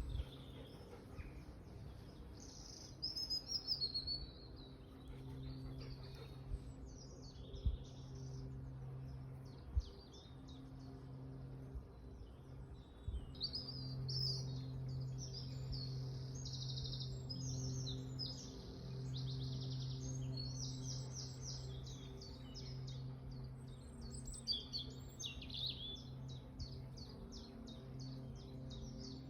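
Wild birds singing, with fast runs of repeated notes through the second half, over a steady low hum. A couple of brief soft knocks come in the first third.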